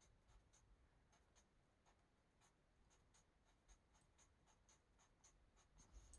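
Faint, quick scratching strokes of a coloring tool on a coloring-book page, several a second, in near silence.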